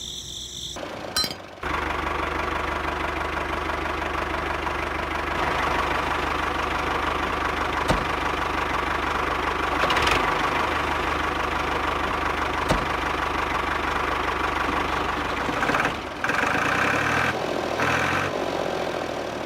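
A motor running steadily with a rattling, engine-like drone and a low hum. There is a brief dip and change in tone about three-quarters of the way through.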